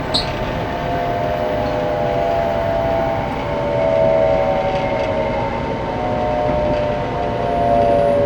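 Inside a 700-series Shinkansen car: steady running noise with a whine of several tones that slowly falls in pitch as the train slows for the station. A short click sounds at the very start.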